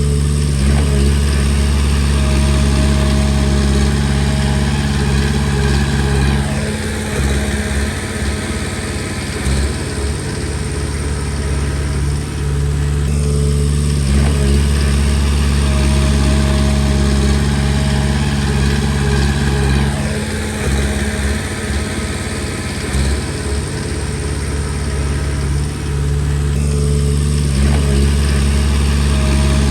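Komatsu D20P bulldozer's diesel engine running steadily, its note changing in a repeating cycle about every six to seven seconds.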